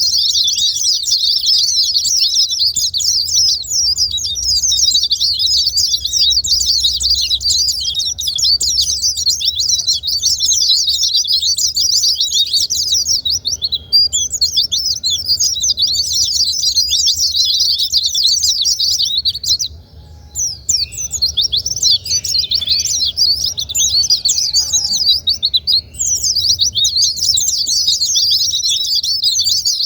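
White-eyes (pleci) singing a fast, high, dense twittering song, nearly unbroken. This is a lure track used to trigger song in other pleci. The song breaks briefly about two-thirds of the way in.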